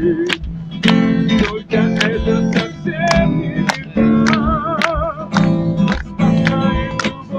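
Acoustic guitar strummed in a steady rhythm, chords ringing between the strokes, with a wavering melody line over it.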